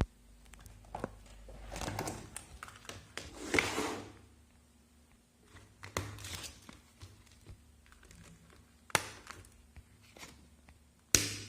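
Close-up paper and stationery handling while making a paper journal: rustling and crinkling swells, with scattered sharp taps and clicks, the loudest one just before the end.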